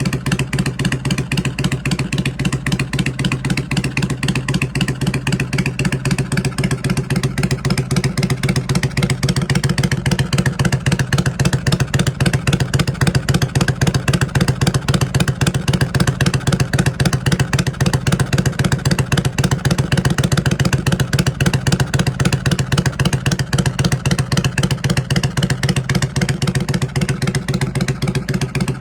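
Kawasaki Vulcan 400 Drifter's V-twin engine idling steadily through its exhaust, an even, loud pulsing beat without revving.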